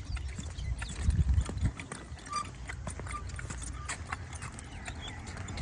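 Bicycle rolling over a rough path: irregular clicking and rattling over a low rumble of wind on the microphone, loudest about a second in.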